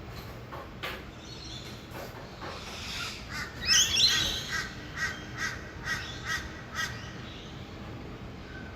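Harsh bird calls: one loud rasping call about four seconds in, followed by a quick series of about six short, evenly spaced calls. Under them runs a faint steady hum of distant traffic.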